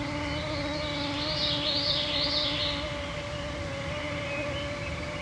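Mosquitoes whining close to the microphones, a steady hum that wavers slightly in pitch. About a second in, a songbird sings a short burst of high warbling notes.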